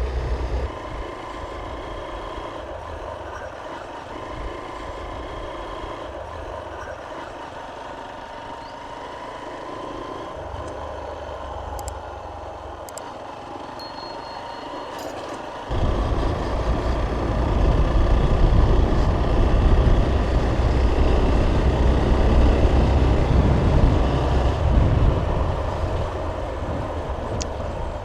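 Motorcycle running along a rough road in traffic. About sixteen seconds in, a much louder low rumble sets in suddenly and lasts nearly ten seconds before easing off.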